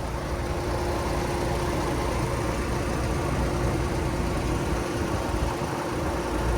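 Steady engine hum with a low rumble and a constant mid-pitched tone, like a vehicle idling.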